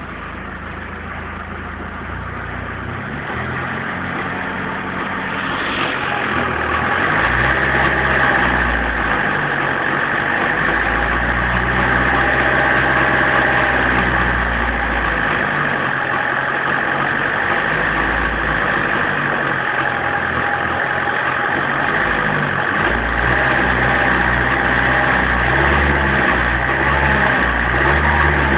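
BMW 318 tds's 1.7-litre four-cylinder turbodiesel running under acceleration. It grows louder over the first several seconds and then holds steady, its pitch shifting up and down.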